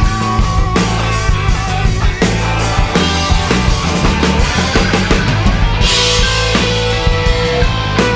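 A rock band playing an instrumental passage: drum kit keeping a steady beat under bass and electric guitar, with no singing.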